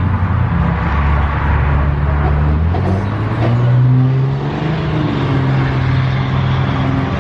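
A car engine running with a deep, low tone; its pitch climbs about halfway through as it revs briefly or pulls away, then settles back.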